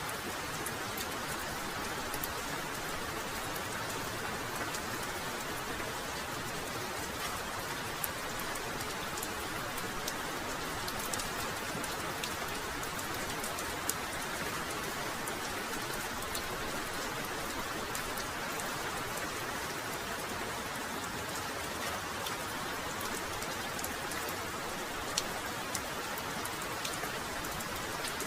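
Heavy rain falling steadily, with a dense hiss and individual drops clicking sharply on nearby surfaces.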